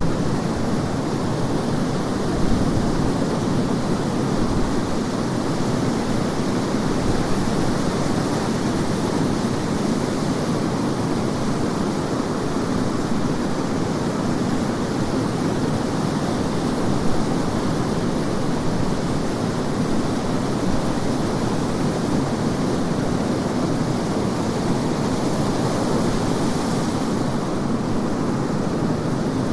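Wind blowing on a beach with surf, heard as a steady, dense rush of noise.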